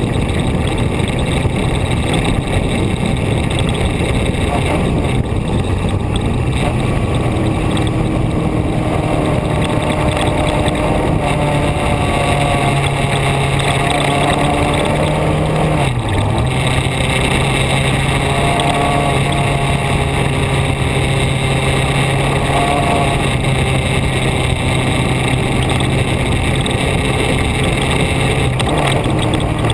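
A vehicle driving on the open road: a steady engine note under loud, constant wind and road rush. About sixteen seconds in, the engine note dips briefly and then settles again.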